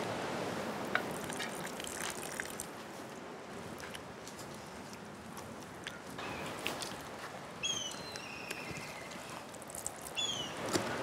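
Outdoor ambience with a few light clicks and taps of kitchen handling, and a bird calling twice in quick runs of short falling notes, about two-thirds of the way in and again near the end.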